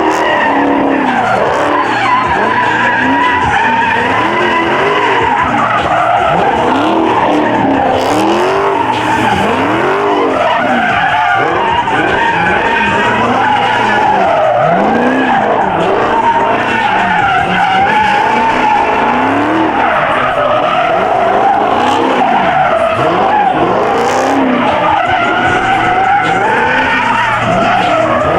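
Muscle car engines revving hard, their pitch rising and falling over and over, with tyres squealing and skidding continuously through burnouts and donuts.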